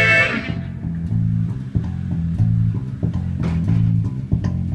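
Live band music: a bass guitar plays a repeating low riff, the fuller band sound falling away about half a second in and leaving the bass mostly on its own.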